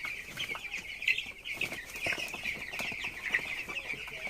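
A flock of about 300 broiler chickens, 17 to 18 days old, calling together in a brooding house: a steady, dense chorus of high peeping and cheeping.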